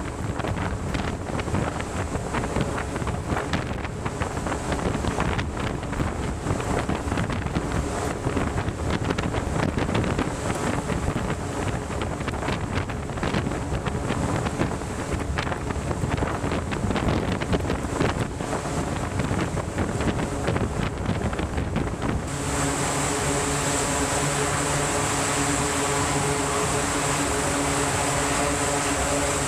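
Wind buffeting the microphone with rushing water, as on a vessel at sea. About three-quarters of the way through it cuts suddenly to a steady mechanical drone with several fixed tones, like an engine or aircraft running.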